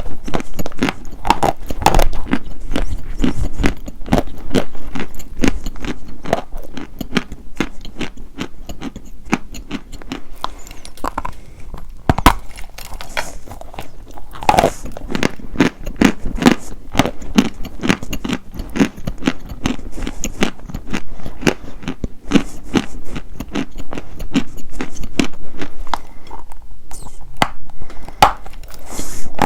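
Dry white chalk being bitten and chewed: dense, irregular crunching and crackling, with a sharp bite about twelve seconds in.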